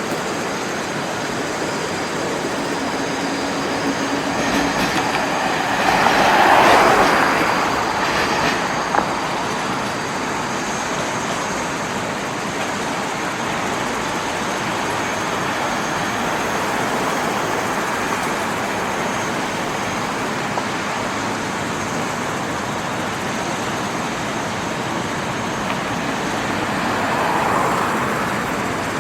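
A train running past on the rails, with a steady rolling clatter of wheels; the noise swells about six to seven seconds in and again near the end.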